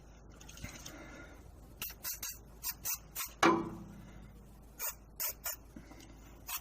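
Short hissing squirts of WD-40 aerosol spray in quick groups of two or three, aimed at a seized exhaust bolt whose head is rounding off. One louder clunk comes about halfway through.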